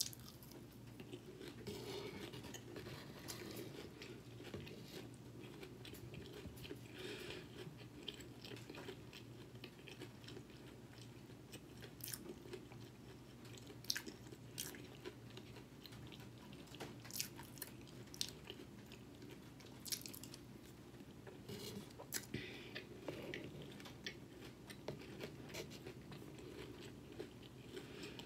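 A person chewing mouthfuls of milk-soaked wheat and rice cereal squares, with soft crunching and many scattered sharp clicks.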